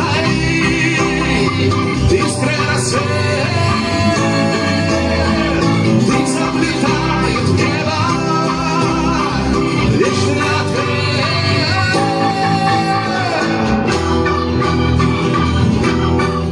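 Live band music without lyrics: a melodic passage with wavering lead lines over bass and chords.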